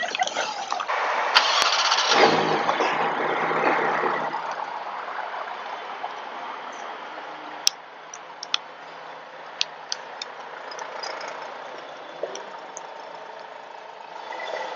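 A car engine starting up and running loudly for a few seconds, then settling into a quieter steady hum, with a few sharp clicks.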